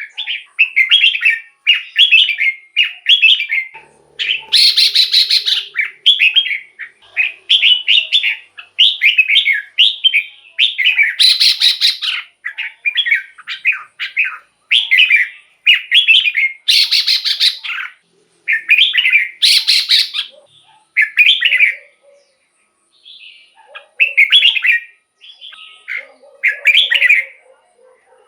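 Red-whiskered bulbul singing: short whistled phrases in quick succession, about one a second, a few of them louder than the rest, with longer pauses near the end.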